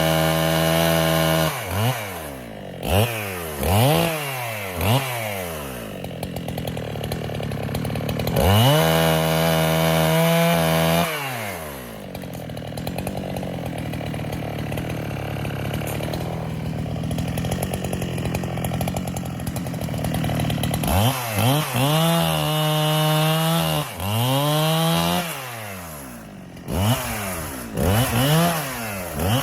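Neotec NH895 two-stroke chainsaw, a 395 clone, cutting white oak. It is held at high speed in three stretches of a few seconds each, drops to a steady idle in between, and is given quick throttle blips that rise and fall in pitch.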